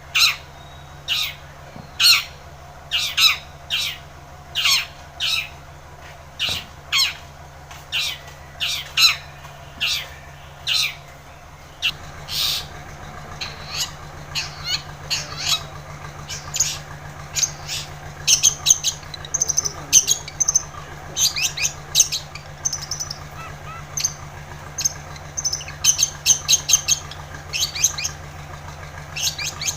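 Long-tailed shrike (cendet) calling in full voice: a long string of short, harsh notes at roughly two a second, growing busier with higher notes in the second half. A low steady hum comes in about halfway through.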